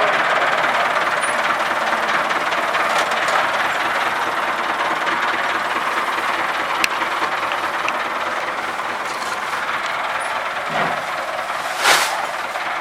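Massey Ferguson 385 tractor's four-cylinder diesel engine running steadily under load, driving a toka fodder chaff cutter that is chopping fodder with a continuous whirring, rushing noise. A low thump comes near the end, followed by a brief louder burst of noise.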